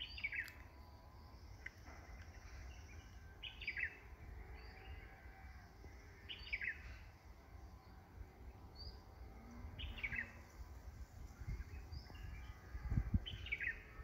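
A bird calling repeatedly outdoors: a short, falling call about every three seconds, with fainter high short notes in between.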